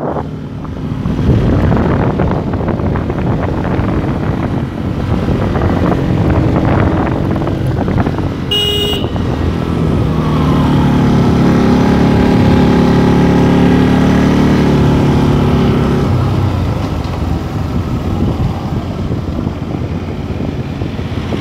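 Motorcycle engine running on the move over steady road noise, with one short horn beep about nine seconds in. Around the middle the engine note climbs a little, holds strongly for several seconds, then fades.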